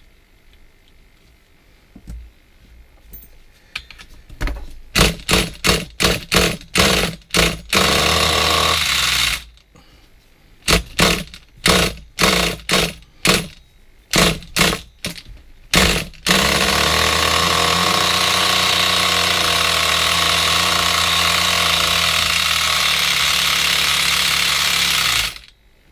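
Small RC nitro engine in a Hyper 7 buggy being cranked in short bursts, about two a second, and catching briefly twice. It then runs steadily for about nine seconds before it cuts off suddenly.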